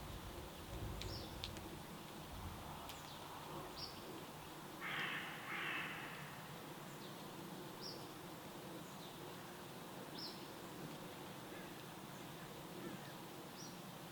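Wild birds calling: short high chirps repeat every two to four seconds, and two harsh calls, the loudest sounds, come about five seconds in, over a steady background hiss.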